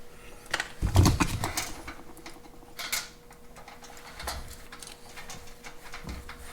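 Small clicks, taps and scratchy rustles of hands working wires into a metal fluorescent light fixture, with a louder knock about a second in. A faint steady hum runs underneath.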